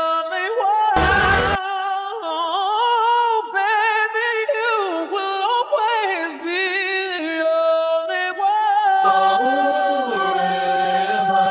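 A woman's voice sings wordless runs and ad-libs with vibrato, with a short burst of noise about a second in. From about nine seconds in she holds a long note while lower voices hum underneath.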